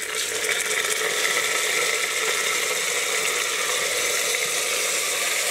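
Yogurt-marinated mutton sizzling in hot oil with browned onions in a pressure cooker as it goes in. The sizzle builds over the first second, then holds steady.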